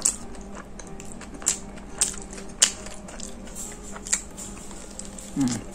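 A person chewing a mouthful of toasted egg sandwich close to the microphone: a few sharp wet mouth clicks and smacks, then a short falling hum from the eater near the end.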